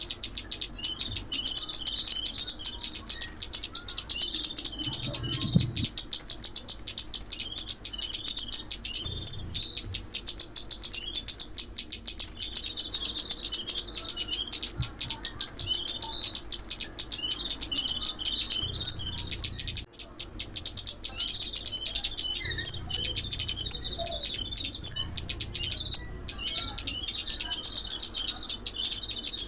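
A small songbird's lure call, the bird known in Vietnamese as chim ốc mít, singing on and on in rapid, high-pitched twittering chatter and trills, with a long held whistle partway through.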